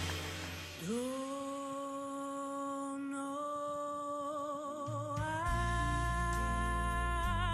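A woman singing a slow ballad solo in long held notes. A note swells in about a second in and is held, wavering into vibrato. About five seconds in she steps up to a higher held note as a low bass accompaniment comes in underneath.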